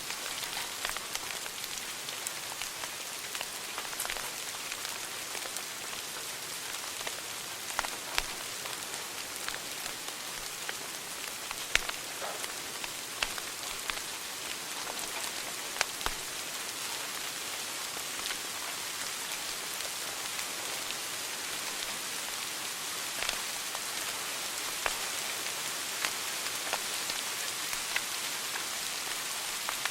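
Wood fire crackling in a fireplace: a steady hiss with frequent irregular sharp pops and snaps, a few louder ones about 8, 12 and 16 seconds in.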